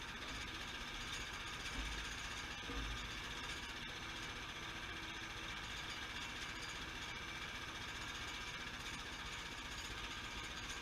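Sawmill running steadily while milling a log, a constant mechanical drone from its engine and saw. A couple of brief low bumps come about two and three seconds in.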